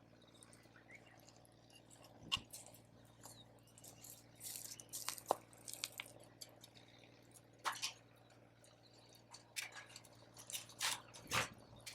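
Wood campfire crackling, with scattered sharp pops and a few short hissing flares, the largest near the middle and near the end.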